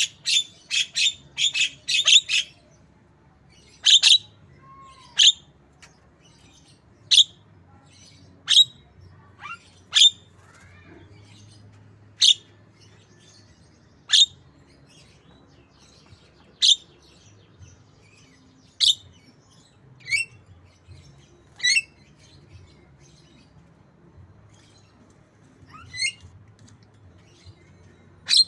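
Javan myna mimicking white-rumped shama calls. A quick run of short, sharp chirps comes in the first couple of seconds, then single chirps follow every second or two.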